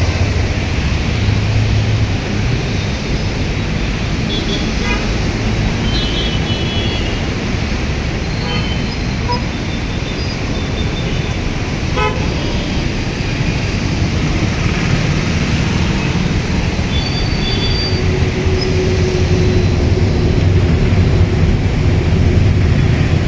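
Heavy rain pouring steadily over road traffic, with a low rumble of vehicles and several short vehicle horn toots, one held for a couple of seconds about three quarters of the way through.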